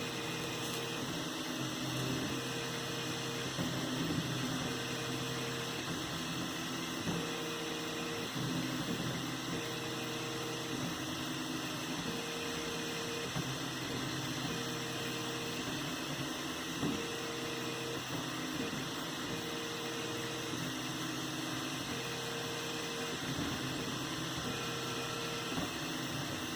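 3D printer running, a steady hum of motors and fans. A higher stepper-motor tone sounds for about a second every two and a half seconds, in a regular repeating pattern.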